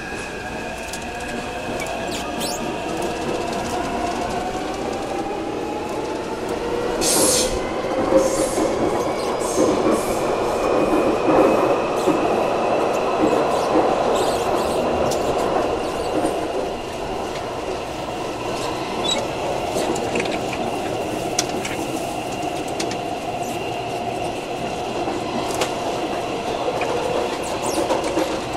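Taipei Metro C371 train's Mitsubishi IGBT VVVF inverter whining, with several tones gliding up in pitch as the train gathers speed and then holding steady, over wheel and rail rumble heard from inside the car near the gangway. A brief high hiss or squeal comes about seven seconds in.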